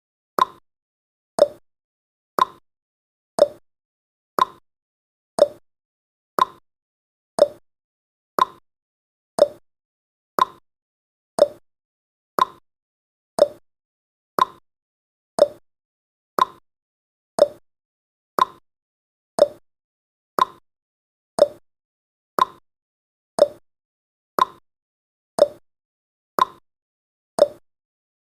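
Countdown timer's tick sound effect: a short, sharp tick once every second, evenly and steadily.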